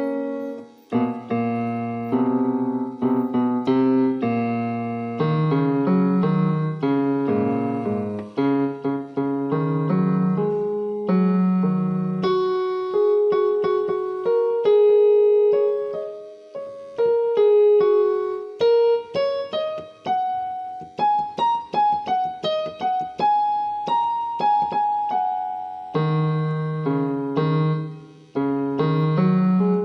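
Background piano music: a slow melody over low chords, with a passage of quick repeated notes near the middle.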